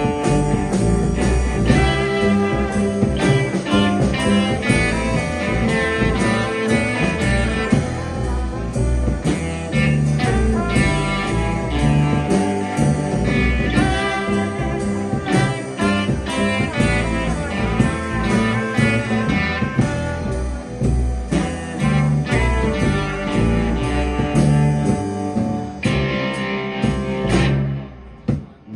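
Live rock band playing a guitar-led instrumental passage with no singing. The sound dips briefly near the end, then the band comes back in.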